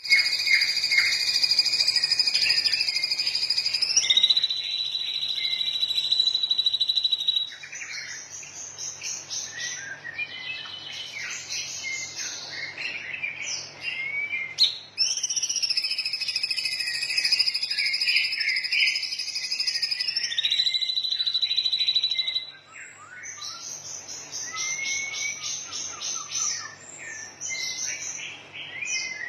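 Songbird masteran recording playing: long, high trills held for about four seconds each, the second a step lower than the first, then a run of varied chirps and whistles. The same sequence starts again about halfway through, as a looped training track does. A faint steady low hum lies underneath.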